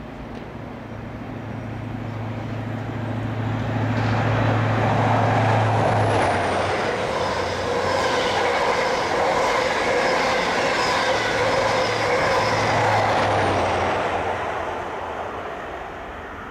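Intercity express passenger train running through the station at speed without stopping. Its rumble builds as it approaches, stays loud for about ten seconds as the coaches rush past, and fades near the end. A low steady hum is heard as it comes in and again briefly as the far end passes.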